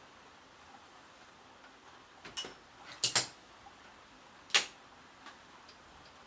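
A few short, sharp scratches and taps of pen-and-paper writing, about four in all, the loudest a double tap around three seconds in, over a faint steady hiss of rain.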